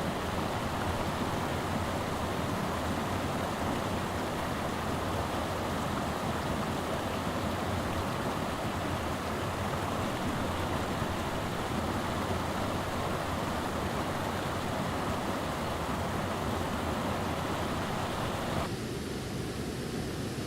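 Steady, continuous rushing of a waterfall. Near the end the sound changes abruptly to a duller, quieter rush.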